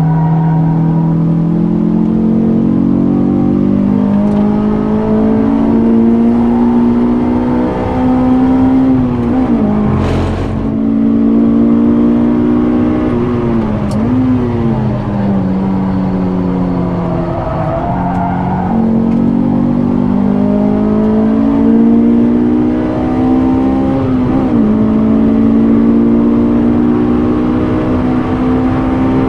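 Honda S2000's 2.2-litre F22C inline-four, fitted with a K&N intake and J's 70RS exhaust, heard from inside the cabin at full track pace. The engine note climbs steadily under acceleration and dips sharply and recovers several times with the gear changes, with a brief knock about ten seconds in.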